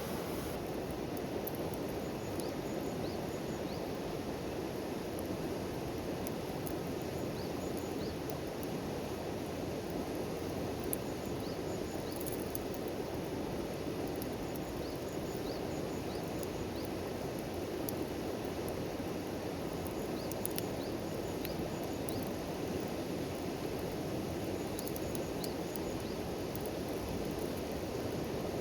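Steady rushing of flowing water, with faint short high chirps and scattered small ticks over it.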